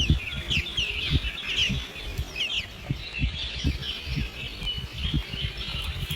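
Birds chirping in a quick series of short, high, falling chirps, thickest in the first few seconds, over a low rumble with soft thumps.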